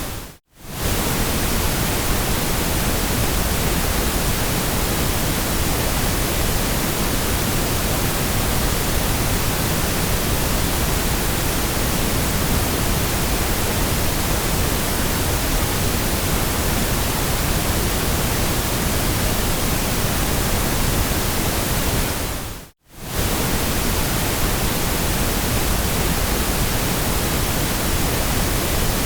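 Steady white noise, an even hiss across all pitches, that fades briefly to near silence about half a second in and again about 23 seconds in before returning at the same level.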